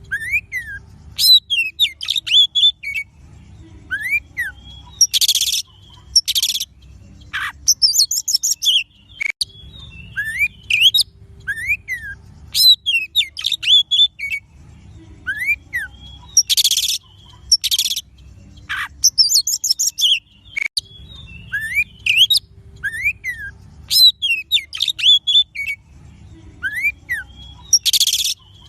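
Oriental magpie-robin (kacer) song: quick whistled notes that rise and fall, rapid trills, and short harsh rasping bursts, with the same run of phrases coming round about every eleven to twelve seconds. It is a looped bait recording (pancingan), played to get a caged bird to sing and open its tail.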